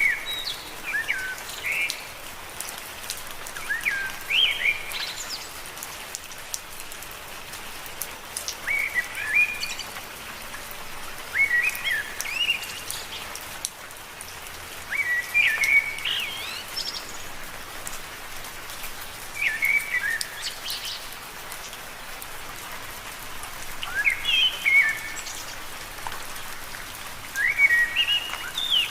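Steady rain falling on leaves, with short, high chirping phrases from a small creature that recur every three or four seconds over the rain.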